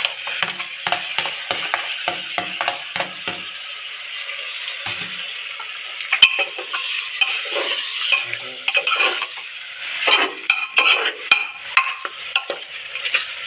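Pork frying and sizzling in a pan with onion, garlic and king chilli while it is stirred, the utensil scraping and clicking against the pan again and again.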